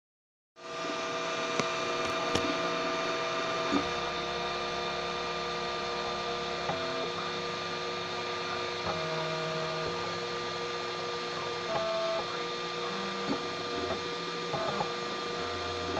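3D printer running: steady motor tones that jump to new pitches every second or two as the print head changes moves, over a constant hum, with a few sharp clicks in the first few seconds.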